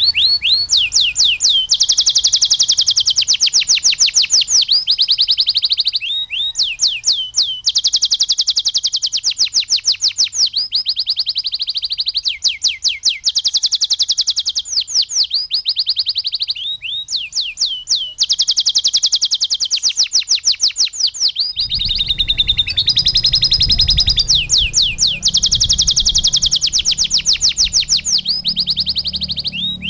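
Canary singing a long song of rapid trills and rolls, phrase after phrase with short breaks, a tutor song with lovebird-style fills. A low rumble joins about two-thirds of the way through.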